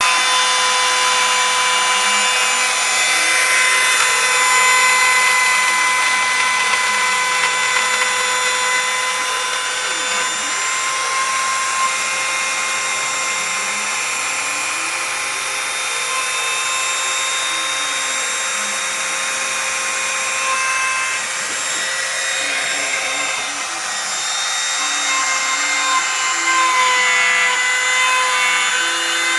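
A homemade CNC router's spindle runs with a steady high whine, with a hiss of cutting, as a 1/8-inch spiral O-flute bit rough-mills 1/4-inch aluminum. Fainter low tones slide up and down as the stepper-driven axes move.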